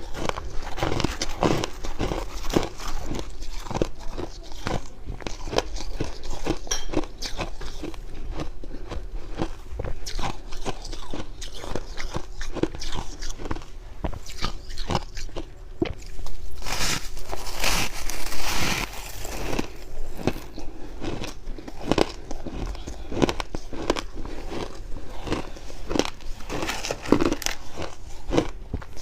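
Close-miked biting and chewing of fluffy freezer frost and ice: dense, dry, irregular crunches. A louder, denser run of crunching comes about two-thirds of the way through.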